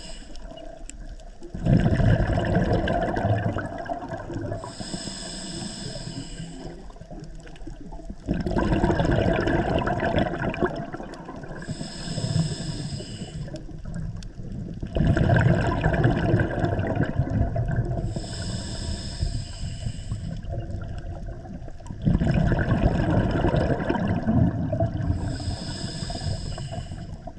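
Scuba diver breathing underwater through a regulator, four breaths: each is a hiss from the regulator as air is drawn in, then a loud gush of exhaled bubbles rumbling past the camera.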